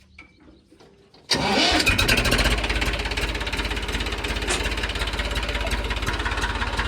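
A diesel engine starts a little over a second in, running loud at first, then settling into a steady idle.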